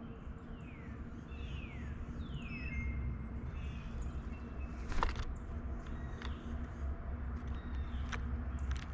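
Wild birds: a few quick whistled notes falling in pitch in the first three seconds, then scattered sharp taps and clicks, the loudest about five seconds in, over a steady low rumble.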